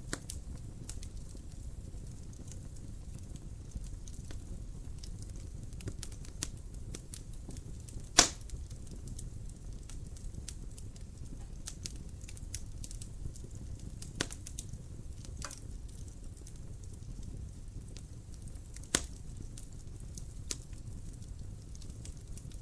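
Wood fire crackling in a fireplace: a steady low rumble of flames under frequent small sharp crackles and pops. The loudest pop comes about eight seconds in, with other strong ones near fourteen and nineteen seconds.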